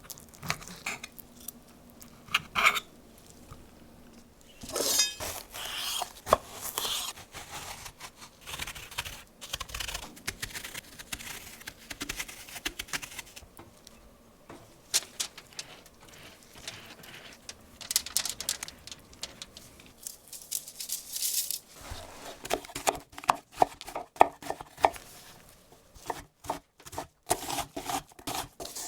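Food preparation at a kitchen counter: irregular taps, scrapes and clinks of a knife, utensils and dishes. About two-thirds of the way in, a denser run of quick knocks starts.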